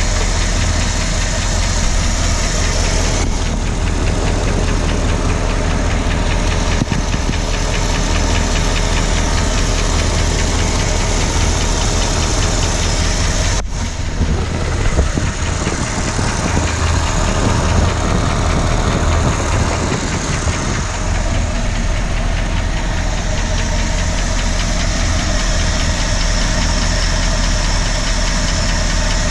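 1965 Ford Galaxie's 352 FE V8 engine idling with a fast, regular ticking, the unexplained tick the owner is trying to locate. The sound shifts for several seconds about halfway through, then settles back.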